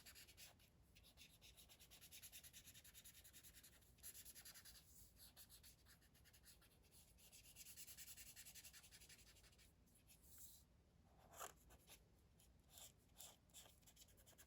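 Faint, rapid back-and-forth scribbling of a marker colouring in on paper, broken by a few short pauses.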